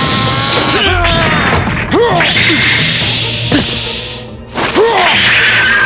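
Animated sword-fight sound effects: sharp blade clashes and hits, with short fighters' cries, over dramatic background music.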